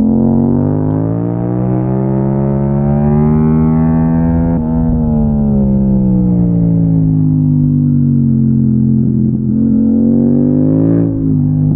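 Yamaha MT-07's parallel-twin engine pulling through the gears: it rises in pitch for about four seconds under acceleration, drops suddenly at a gear change, falls as it slows into a bend, then rises again and drops sharply once more near the end.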